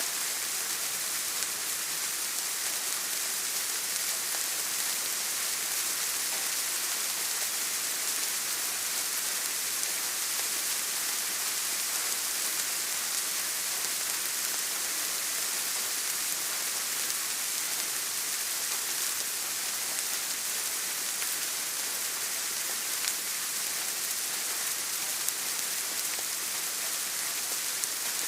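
Steady rain falling: an even, unbroken hiss of many fine drops, with a couple of sharper single drop ticks near the end.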